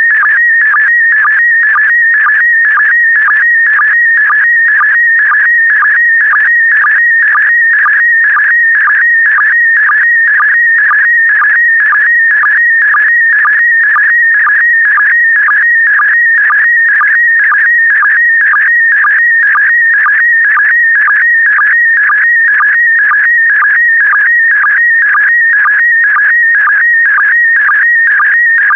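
PD120 slow-scan television (SSTV) image signal: a continuous warbling tone near 2 kHz that shifts in pitch as it carries the picture, broken by a short dip about twice a second, one for each pair of scan lines.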